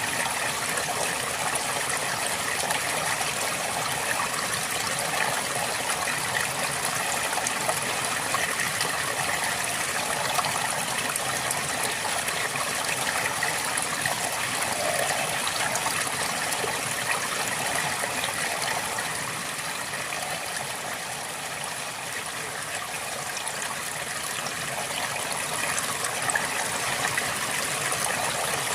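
River water flowing steadily, a continuous rushing and burbling.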